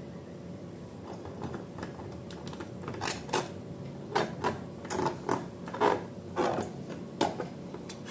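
Handling noise from slime-making with balloons: faint at first, then irregular small clicks and taps, a few a second, from about three seconds in.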